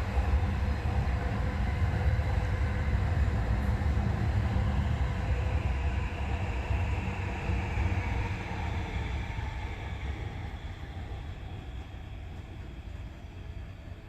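Electric train running on the station track, a steady low rumble that fades away over the second half as the train moves off.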